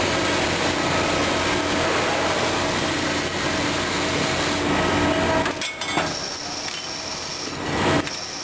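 Running machinery in a CNC machining cell: a steady mechanical noise with a low hum, which drops and changes about two-thirds of the way in, when a thin high whine comes in.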